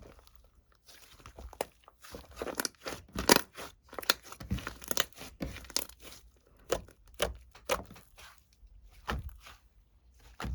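Irregular crinkling and crackling, a rapid run of sharp snaps that is busiest in the middle and thins out toward the end.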